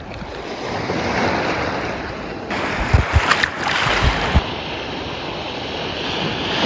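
Black Sea storm surf: waves breaking and washing around, with a louder surge of breaking water about two and a half seconds in that lasts nearly two seconds. Wind thuds on the microphone several times during the surge.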